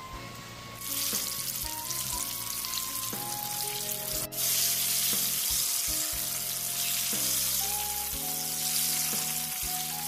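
Battered Taiwan patola (luffa) slices deep-frying in hot oil, a steady sizzle that starts about a second in, cuts out for an instant a little before the middle, then comes back louder. Background music plays underneath.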